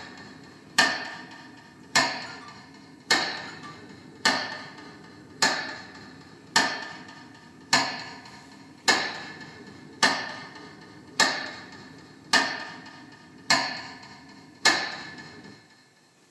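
Metronome beats marking a minute of silence: a ringing knock about once every 1.15 seconds, each fading away before the next. The beats stop near the end.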